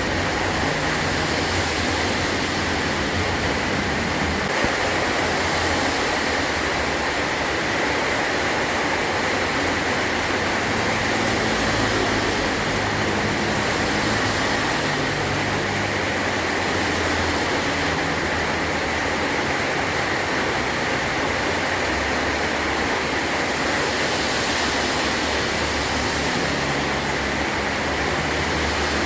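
Heavy rain drumming steadily on a metal roof, an even hiss with no let-up.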